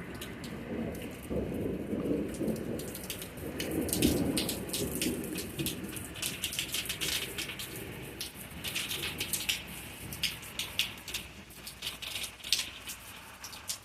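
Thunder rumbling low, swelling about a second in and dying away by the middle, while rain patters in sharp drips and taps that grow denser in the second half.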